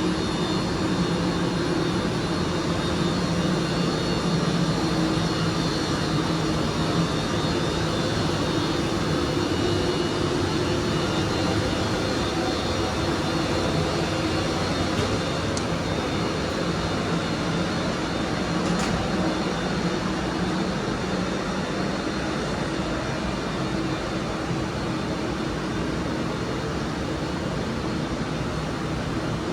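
Class 397 electric multiple unit standing at the platform, its onboard equipment giving a steady hum with a faint high whine.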